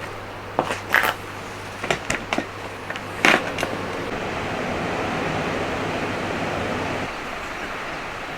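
A few sharp clicks and knocks, then the sea washing in: a wave swells up about halfway through and fades away.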